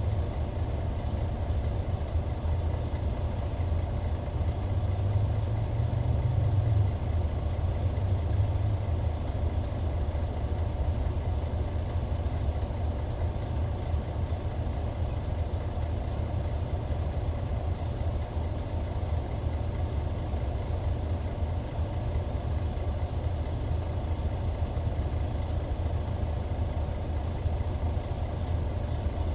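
Hyundai D6CC Powertec 380 12.7-litre inline-six diesel of a 2014 Hyundai Universe Comfort bus running steadily with a low drone. The drone swells briefly about five to seven seconds in.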